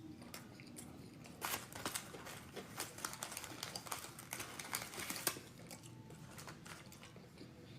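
Eating sounds: faint crunchy clicks of chewing fries mixed with some crinkling of paper food packaging, mostly between about one and a half and five seconds in.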